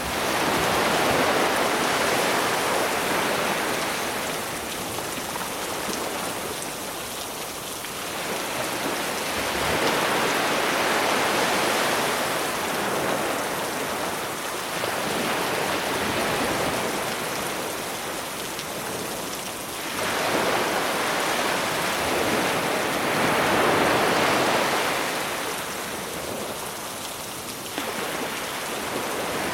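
Sea waves breaking and washing up a beach in slow surges every several seconds, under a steady hiss of rain.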